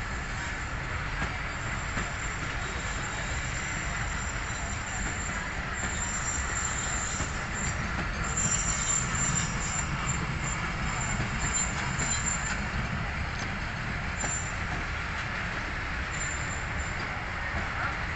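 Diesel locomotive hauling a passenger train slowly into a station: a steady low engine rumble with high-pitched wheel squeals that come and go, strongest in the middle and once more briefly near the end.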